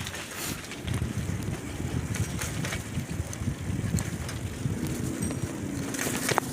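Bicycle being ridden: a steady rumble of tyres on the road with scattered small clicks and rattles, and wind on the microphone.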